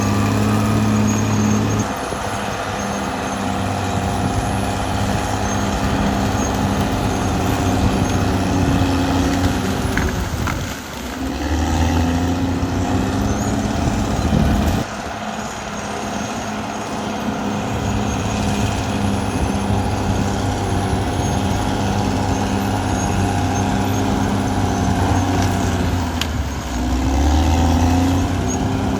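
Caterpillar D6R XL bulldozer's diesel engine running steadily under working load. Its note drops briefly at about eleven seconds, changes sharply at about fifteen seconds and climbs again a couple of seconds before the end.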